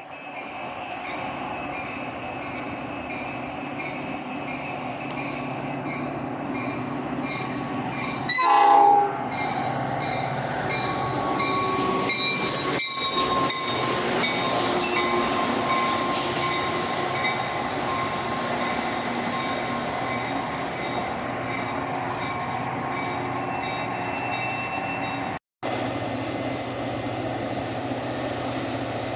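A train rolling by with a steady rumble of wheels and cars, and a short, loud train horn blast about eight seconds in. The sound drops out for a split second twice.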